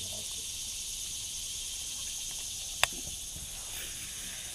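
Steady high-pitched chorus of insects, crickets or similar, buzzing without a break, with one sharp click a little under three seconds in.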